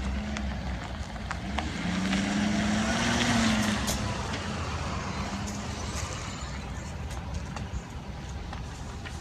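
Heavy truck driving past, its engine note rising as it approaches and falling away, loudest about three seconds in.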